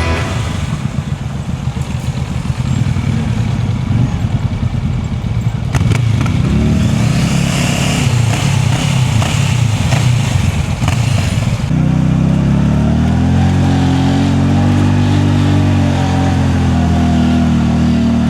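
Sport motorcycle engine running under way, its revs changing as it rides. A rushing noise rises over it in the middle, and from about two-thirds of the way in the engine holds a strong, steady note that climbs slightly, then eases off near the end.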